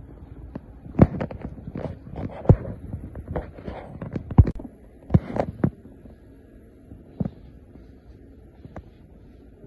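Irregular thumps and knocks over a low steady hum, the loudest about a second in, at two and a half seconds and around four and a half seconds; they thin out after about six seconds.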